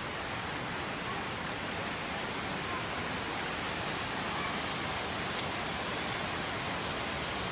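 Steady rushing of a waterfall and its river, an even unbroken roar of water. The falls are running high with rainwater.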